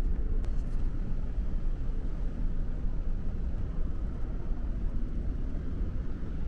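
Steady low rumble of a ferry's engines and hull, heard from inside the ship.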